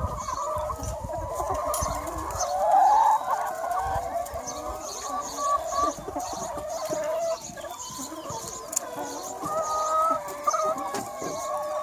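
A large free-range chicken flock clucking, many hens calling over one another at once, with the loudest burst of calls about three seconds in.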